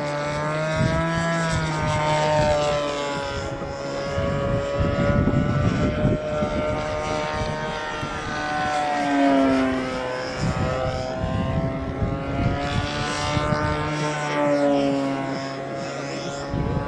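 Radio-controlled model airplane's engine running in flight, its high buzzing pitch slowly rising and falling as the plane manoeuvres and passes. Gusts of wind buffet the microphone at times, strongest around the middle.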